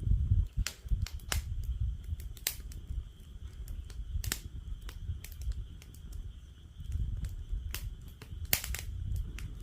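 Wood fire in a fire-pit stand crackling, with irregular sharp pops, two louder ones about four and eight and a half seconds in, over a low rumble. A steady high-pitched chorus of frogs calls throughout behind it.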